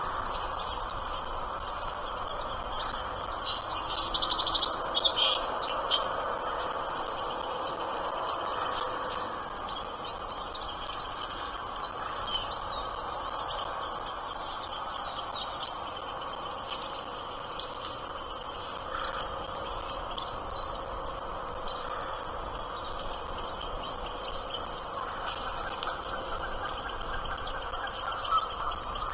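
Small birds chirping, many short high calls one after another, louder and busier for a couple of seconds about four seconds in, over a steady background noise.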